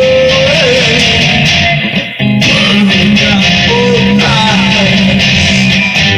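Guitar strumming chords, with single melody notes ringing above them, recorded on a phone; the playing breaks off briefly about two seconds in, then carries on.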